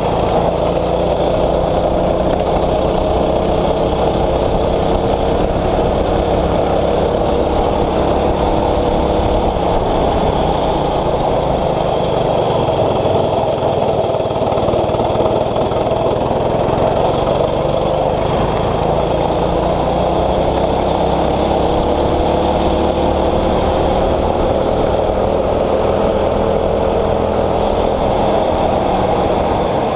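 A 6.5 hp kart engine running under race load. Its pitch drops for a few seconds, then climbs slowly again as the kart slows for a corner and accelerates back out.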